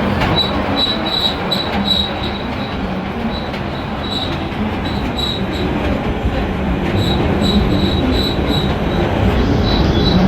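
A train running, with a steady rumble and runs of short, high wheel squeaks several times a second.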